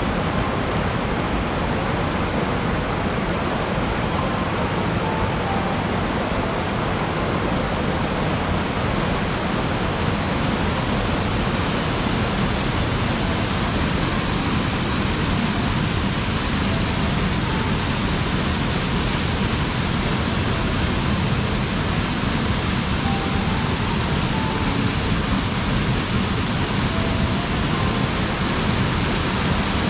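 Waterfall: the steady, even rush of water falling and splashing, with a few faint short high notes now and then.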